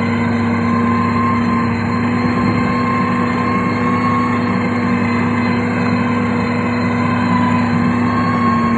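Heavy road-construction machinery, a diesel engine running steadily: a constant drone with a steady whine over it.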